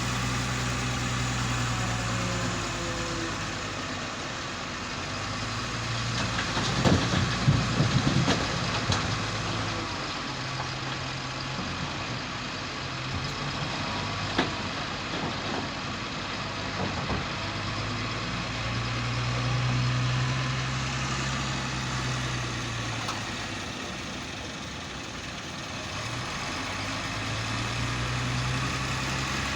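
Heavy vehicle engine running, its pitch rising and falling several times as it is revved and eased off. A burst of loud knocks and clatter comes about seven seconds in, with a few single knocks later.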